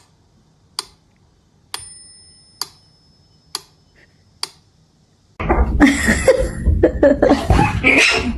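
Six sharp clicks or taps about a second apart, one of them followed by a short bell-like ring. About five seconds in, a loud, busy jumble of noise starts.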